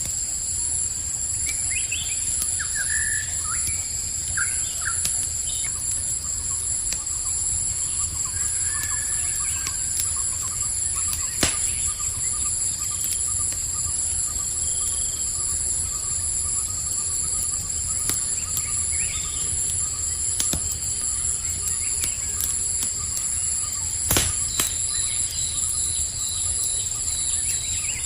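Campfire crackling, with a few sharp pops about a third of the way in and again near the end, over a steady chorus of chirping crickets. A few short bird chirps sound in the first few seconds.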